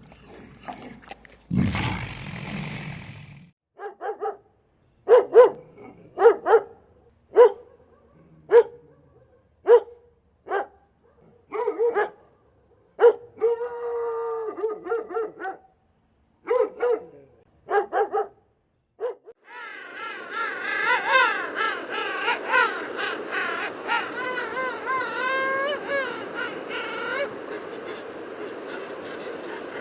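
Animal calls: a short rough burst near the start, then a run of short, sharp calls about once a second. About two-thirds of the way in, several animals start calling together in wavering, rising and falling tones, growing quieter near the end.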